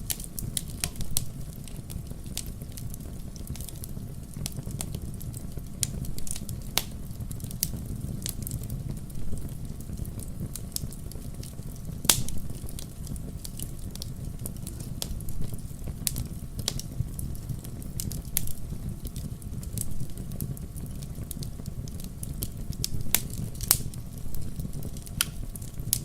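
Wood fire burning in a fireplace: a steady low rumble of flame with irregular sharp crackles and pops scattered throughout, one louder pop about halfway through.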